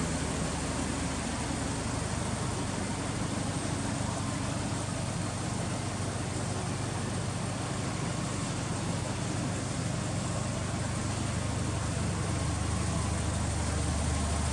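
Subaru Impreza WRX STI (GRB) turbocharged flat-four engine idling steadily through an aftermarket HKS muffler, a low even rumble that grows slightly fuller near the end.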